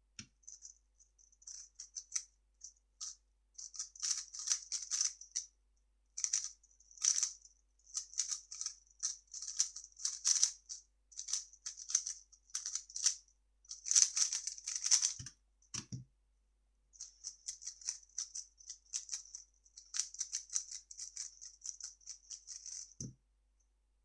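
3x3 speedcube being turned fast by hand: rapid plastic clicking and rattling of the layers in quick flurries with brief pauses. A few soft thumps come in, twice a little past the middle and once near the end.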